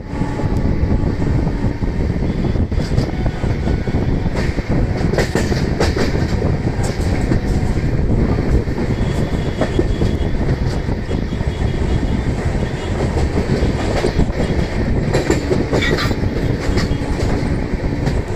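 Express passenger train running at high speed: a steady loud rumble of wheels on the rails, with scattered sharp clatters and knocks as the wheels pass over rail joints and points.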